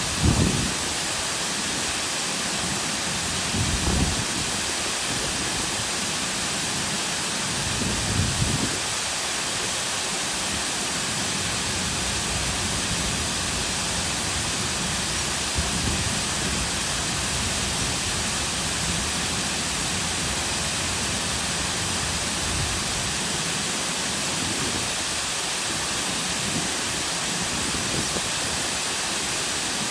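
Cascading waterfall pouring steadily into a lake, an even rushing hiss of falling water. A few brief low rumbles rise out of it in the first nine seconds.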